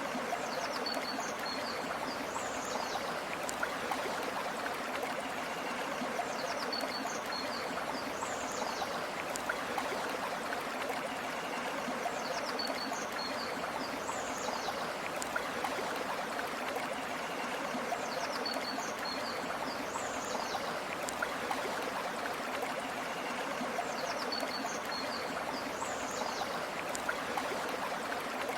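A river or stream flowing steadily with an even rushing sound. A short high bird call, a few quick notes and a sweep, comes back at regular intervals about every five and a half seconds.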